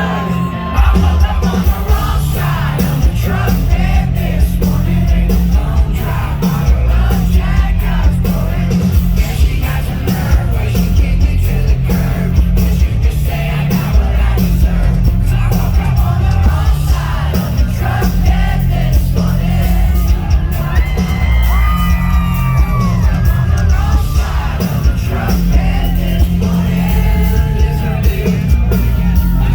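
Live country-rock band playing loud, with heavy bass and drums, and voices yelling and singing along over it.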